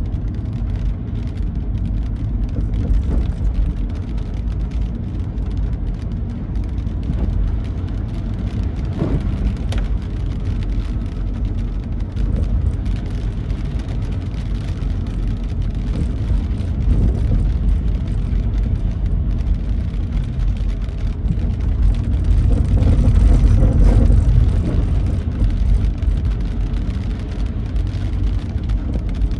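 Car driving on a wet road in the rain: a steady low rumble of engine and tyre noise that grows louder for a few seconds about three-quarters of the way through.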